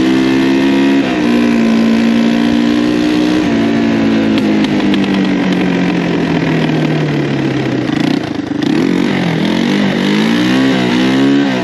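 1985 Yamaha 225DX three-wheeler's single-cylinder four-stroke engine running under way, holding speed with small throttle changes, then falling in pitch as it slows from about four to seven seconds in, then revving up and down several times near the end.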